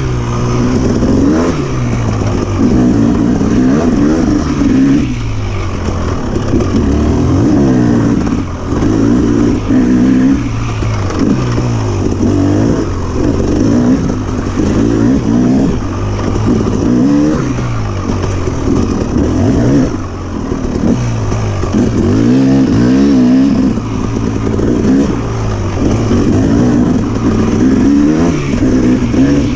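2006 KTM 300 XC-W dirt bike's two-stroke single-cylinder engine revving up and dropping back over and over, its pitch rising and falling every second or two.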